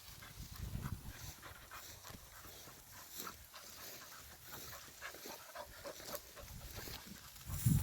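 A dog panting while it searches through grass, a run of quick faint breaths.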